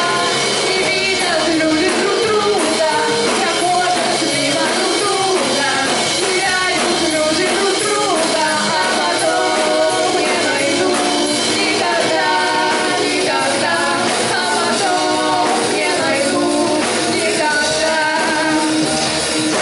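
Rock band playing live in a hall, a full band with a bending melodic lead line over the chords.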